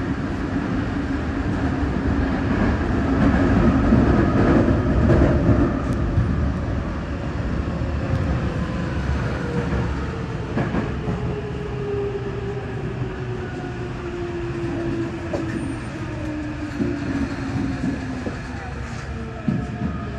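Electric commuter train running through a tunnel, heard from inside the car: a loud rumble of wheels on rail, and then a motor whine that falls slowly in pitch as the train slows into an underground station.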